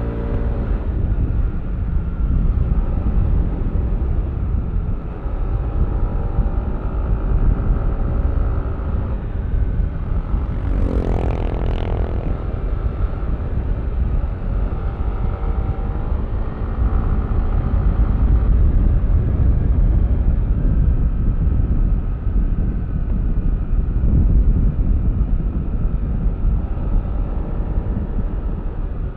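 Yamaha Aerox V3 scooter's engine running under way, its pitch rising and falling with the throttle over a heavy wind rumble on the microphone. About eleven seconds in, a brief louder rush of noise with a rising pitch passes.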